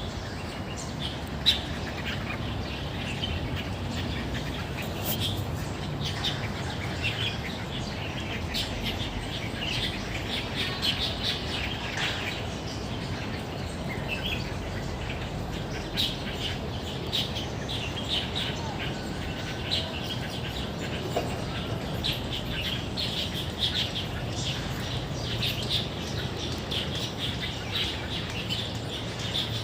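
Many small birds chirping and twittering, short calls overlapping throughout, over a steady low background rumble. A single sharp click comes about a second and a half in.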